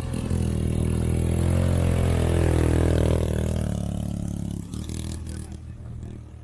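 ATV engine running loud close by, its pitch rising and then falling, then fading away after about four seconds.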